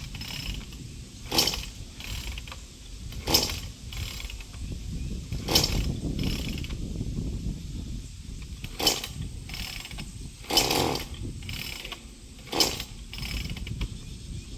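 Gas chainsaw's recoil starter cord being pulled over and over, a quick whirring zip about every two seconds, seven times. The engine does not catch.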